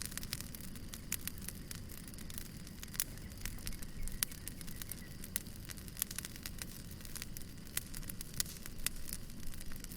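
Wood fire burning, with frequent irregular crackles and pops over a steady low rumble of the flames.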